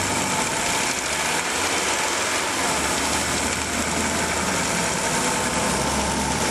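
1987 Audi 4000S five-cylinder engine idling steadily with a fast ticking from the valvetrain. The tick is a hydraulic lifter tick that comes and goes, and the owner finds it concerning.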